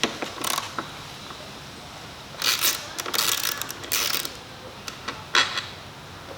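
Hand tools working on dirt-bike metal parts: several short bursts of metallic clicking and scraping, the busiest stretch a little past the middle.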